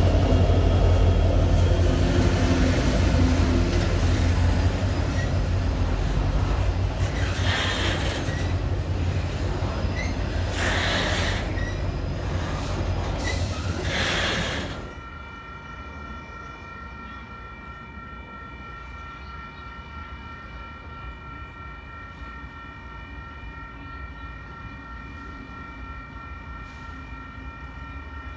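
Diesel-hauled double-stack container freight train passing close by. The locomotives' engine rumble gives way to the clatter and rumble of the container well cars rolling past, broken by three brief hissing surges. About halfway through, the sound drops suddenly to a quiet background with faint steady high tones.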